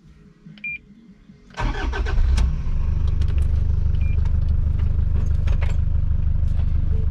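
A 4WD's engine cranks and catches about a second and a half in, then settles into a steady idle. A short electronic beep sounds just before the start.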